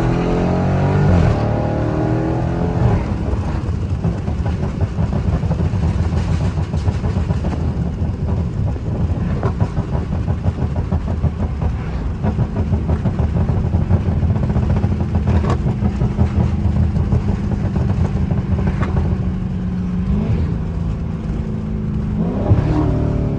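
Dodge Charger 392's 6.4-litre HEMI V8, tuned to pop, revving up at the start and again near the end, with a steady run between and a few faint pops along the way.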